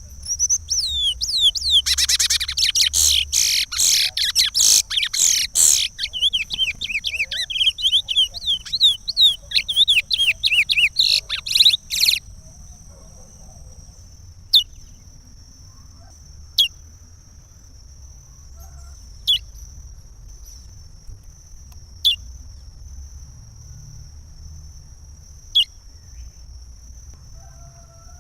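Curió (chestnut-bellied seed finch) singing the Pará regional song: a long, rapid warbled phrase for about twelve seconds, then single short falling notes every two to three seconds.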